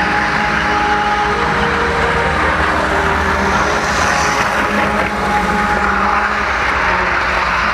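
Model train running along its track, heard from a camera riding on a flatcar right behind the engine: a steady rumble of wheels and motor.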